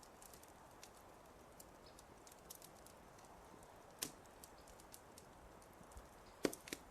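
Wood fire crackling softly: irregular small pops and snaps over a faint hiss, with a sharper pop about four seconds in and a couple of louder snaps near the end.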